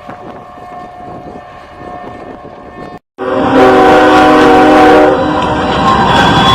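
After a cut, a train horn blasts loud, several tones at once, for about a second and a half over the loud rumble of a passing train. Before the cut, a quieter steady rumble.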